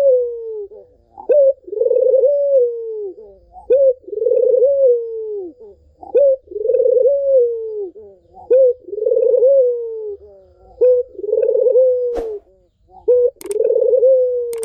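Barbary dove (puter) cooing in a steady series: a short clipped note, then a long coo that falls away, repeating about every two and a half seconds. Two faint clicks come near the end.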